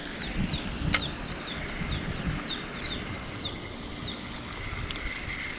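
Outdoor ambience: a small bird repeats a short falling chirp about two to three times a second, over low wind rumble on the microphone. A steady high insect drone joins after about a second and a half, and there is one sharp click about a second in.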